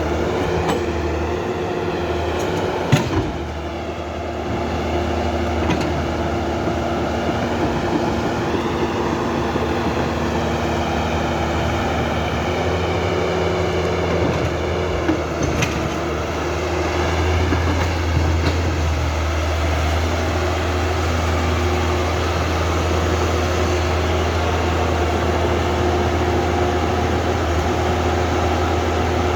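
Huina 1550 remote-control excavator's small electric motors and plastic gearboxes whirring, the whine wavering up and down as the arm and bucket move. There is a sharp click about three seconds in and another about fifteen seconds in.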